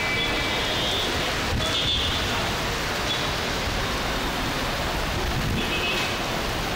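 Steady rain falling on a street, a constant even hiss, with a few faint high tones now and then.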